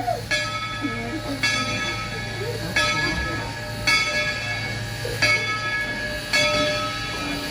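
Locomotive bell ringing in a steady rhythm, about one stroke a second, over the steady low rumble of the train.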